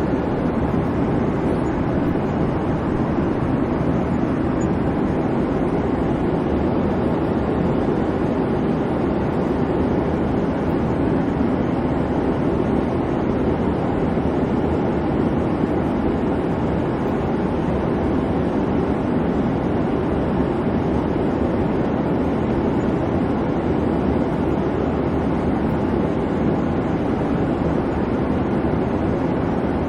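Airplane cabin noise: a steady, even rumble of engine and airflow with a faint low hum beneath, unchanging throughout.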